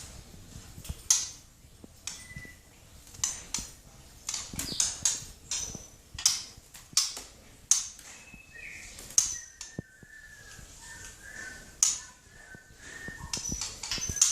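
Young bird calling and moving about: sharp short clicks and harsh chirps at irregular intervals, with a few thin, higher chirps in the second half.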